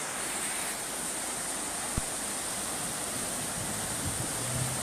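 Steady rushing road noise inside a moving car, picked up by a dashcam, with one sharp click about two seconds in.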